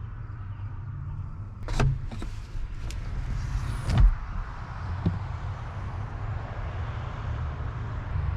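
Vehicle door or hatch handled: a few clicks, a short hiss, then one loud thump like a door shutting about four seconds in, and a smaller knock a second later, over a steady low rumble.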